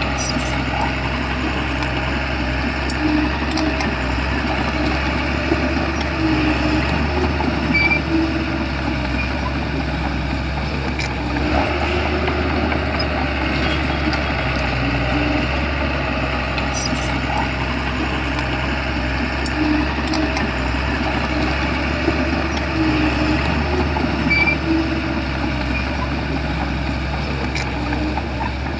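Shantui bulldozer's diesel engine running steadily with a low hum, with occasional short metallic clicks and knocks.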